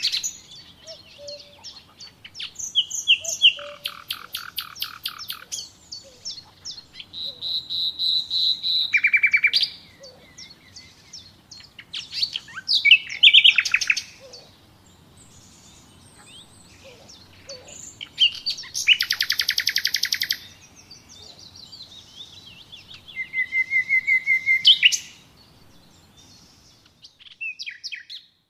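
Wild songbirds singing: a series of short, rapid trilled phrases and chirps, each a second or two long and a few seconds apart, with a faint background hiss that cuts out near the end.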